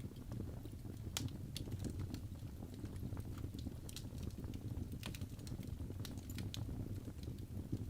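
Birch logs burning in a fireplace: a steady low rumble of the flames with irregular sharp crackles and pops.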